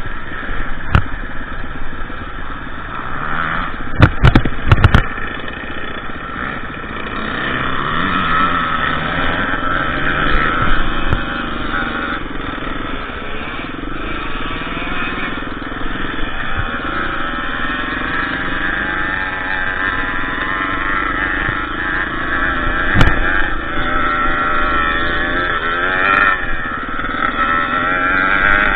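KTM EXC 350 trail bike's single-cylinder four-stroke engine running under way, its pitch rising and falling as the throttle opens and closes. A few sharp knocks come about four seconds in and again past twenty seconds.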